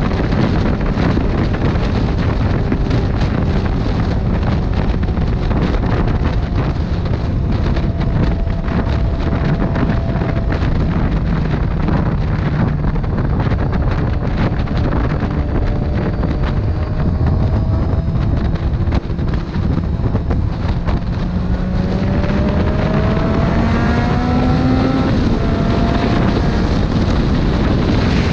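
Motorcycle riding at road speed, with wind noise on the microphone drowning most of the sound and the engine note faint underneath; late on the engine pitch climbs as the bike accelerates.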